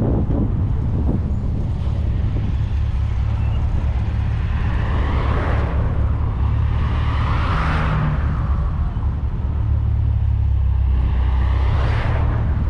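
Low, steady engine and road rumble of a 1994 VW Gol with its 1.6 L CHT engine at highway speed, heard from outside the car with wind on the microphone. Two rushes of noise swell and fade, one in the middle and one near the end, like vehicles passing close by.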